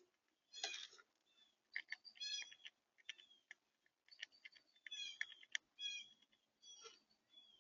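Small birds chirping and twittering in quick, short high notes, mixed with sharp clicks and taps.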